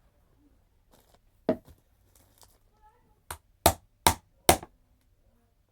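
Sharp knocks and clacks as the bent rug plate of a Kirby G4 upright vacuum is worked on: a single knock, then a run of three loud ones about half a second apart near the middle.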